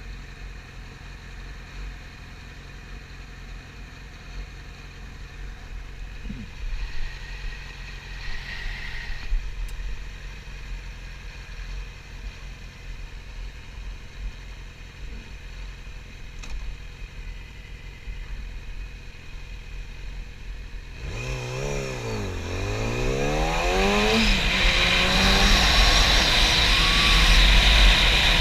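Yamaha YZF-R6's inline-four engine idling steadily. About three-quarters of the way through, the revs swing down and up as the bike moves off, and wind noise on the camera grows louder toward the end.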